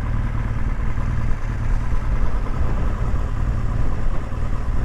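BMW R1200GS boxer-twin engine idling steadily through its Remus exhaust end can.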